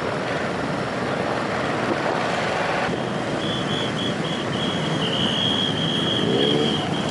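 Many motorcycle engines running together in a dense mass of departing bikes, one revving up near the end. About halfway through a high-pitched tone comes in, broken at first and then held.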